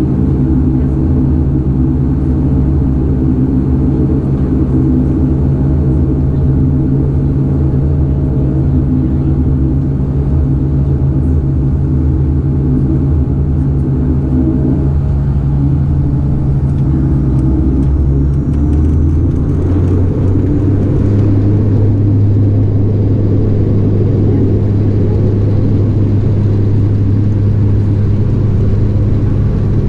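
Cabin noise inside a Bombardier Dash 8-400 (Q400): the steady low drone of its two Pratt & Whitney PW150A turboprops and propellers, a hum of several low tones. The tone shifts about 15 seconds in and again about 20 seconds in, with the lowest note growing stronger.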